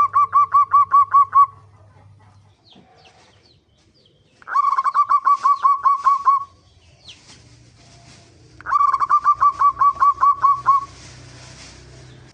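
Zebra dove (perkutut) cooing in three bursts of quick, evenly repeated notes, each burst about two seconds long: the first ends about a second and a half in, the next come about four and a half and eight and a half seconds in. Faint chirps and a light hiss fill the gaps.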